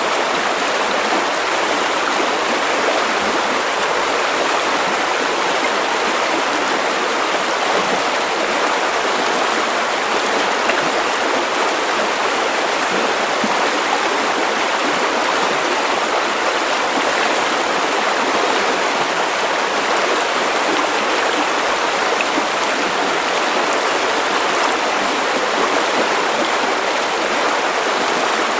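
River water running steadily over stones, a constant rushing and babbling with no breaks.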